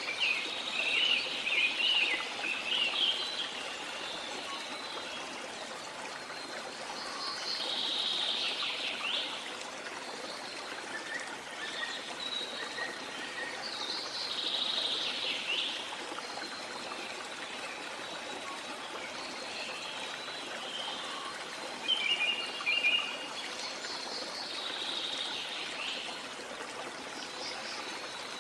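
Steady rush of falling water from a waterfall, with jungle birds calling over it: a quick chirping phrase near the start, then longer sweeping calls every several seconds and a short burst of chirps late on.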